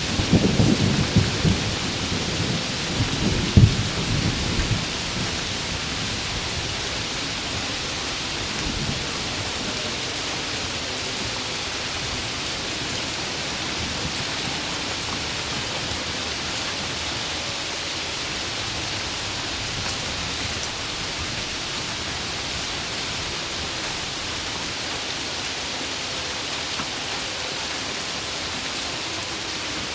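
Heavy rain falling steadily, with a rumble of thunder at the start that includes a sharp crack a little under four seconds in and fades out by about five seconds in.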